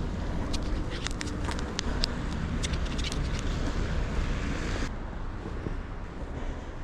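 Wind buffeting the microphone over the steady rumble of passing street traffic, with a run of short sharp clicks in the first few seconds; the high hiss drops away abruptly about five seconds in.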